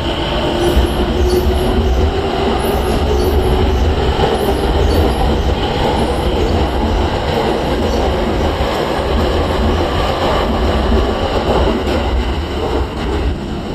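A Tokyo Waterfront Area Rapid Transit 70-000 series electric train pulling away and passing. Its traction motors give a rising whine in the first few seconds over a heavy wheel-and-rail rumble, and the sound fades near the end as the train moves off.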